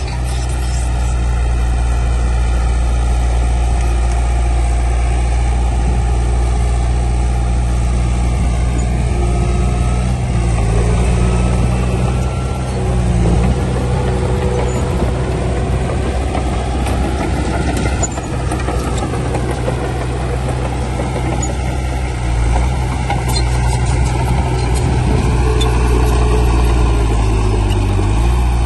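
Heavy diesel engine of earthmoving machinery running steadily, its engine speed dipping briefly near the end.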